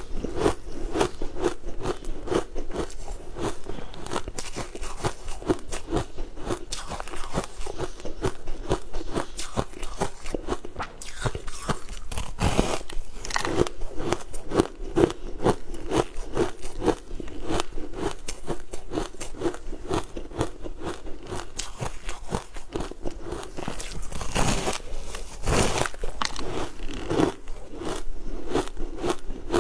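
Close-miked chewing and crunching of a crisp zucchini cookie, a steady run of small crackles with a few louder bites along the way.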